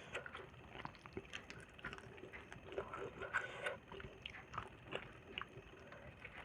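Faint chewing and mouth sounds of a person eating, a scatter of small wet clicks and smacks.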